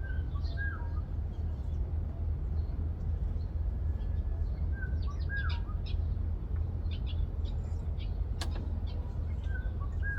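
Wild birds singing: one repeats a short two-note phrase about every five seconds while others add quick high chirps, over a steady low rumble. A single sharp click comes about eight seconds in.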